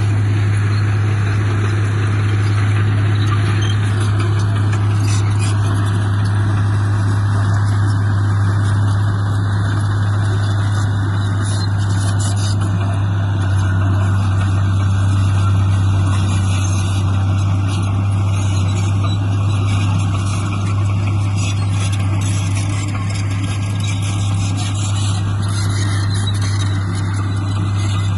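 Diesel engine of heavy earthmoving equipment running steadily under a constant low drone.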